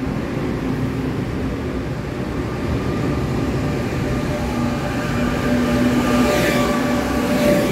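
Push-pull (PP) Tze-Chiang express train pulling out of an underground platform, its cars rolling past close by with a steady rumble of wheels on rails and a few steady hum tones. It grows louder in the last couple of seconds.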